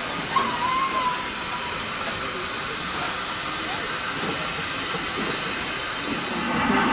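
Steam locomotive hissing steam in a steady, even rush, easing off near the end.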